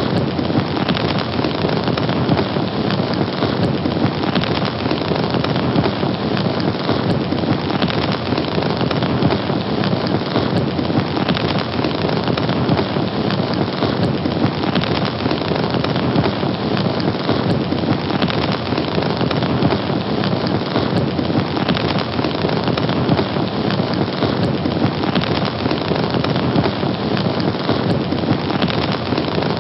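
Fire burning: a steady, dense crackling hiss with occasional sharper pops.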